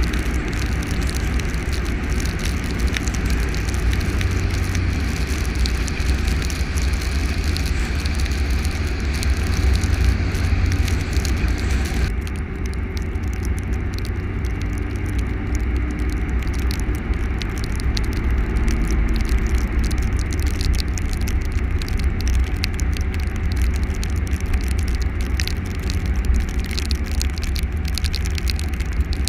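A vehicle driving on a winter road: a steady low rumble with tyre hiss and crackle. The higher hiss drops away suddenly about twelve seconds in.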